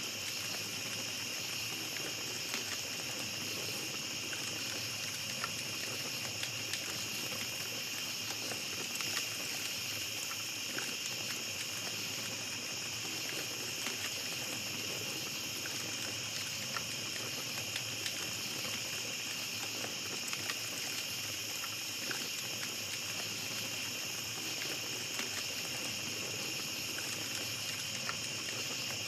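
Small campfire crackling with scattered light pops, over a steady high chorus of night insects.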